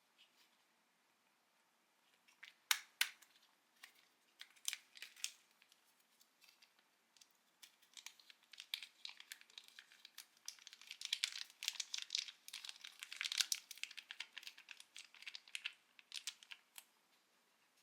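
Instant-food packaging being handled: a few sharp crackles, then dense crinkling and rustling from about eight seconds in until near the end.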